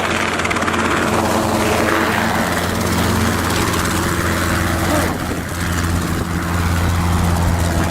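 Robinson R22 helicopter running steadily, its engine and rotor making a loud, even drone.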